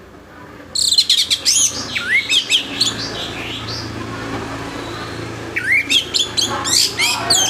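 Orange-headed thrush singing loudly in full song: two bursts of fast, varied whistled phrases with quick sweeping notes, the first starting about a second in and the second near the end.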